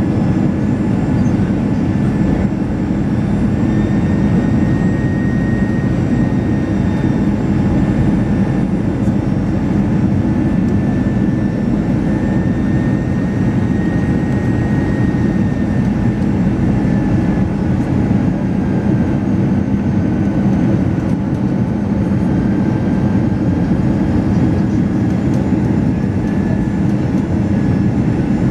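Airbus A319 cabin noise on final approach: a steady roar of jet engines and airflow heard from inside the cabin, with a faint high whine that drifts slightly in pitch.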